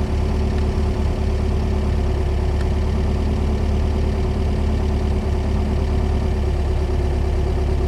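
Volkswagen Baja's air-cooled engine idling steadily, a low even drone heard from inside the cabin.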